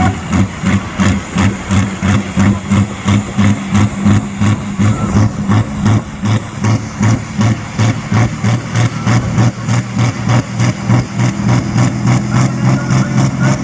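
Big engine of a pulling machine idling with a lumpy, even beat of about two to three pulses a second, smoothing out near the end.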